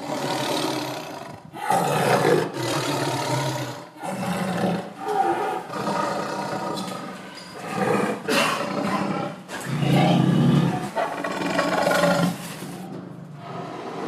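Tiger roaring: a run of loud calls, each a second or two long, with short gaps between them.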